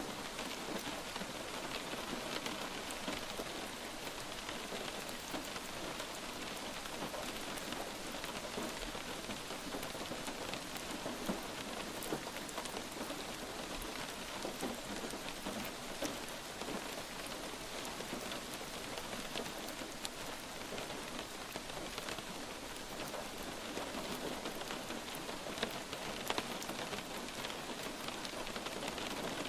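Steady light rain falling, an even hiss with scattered individual drop hits.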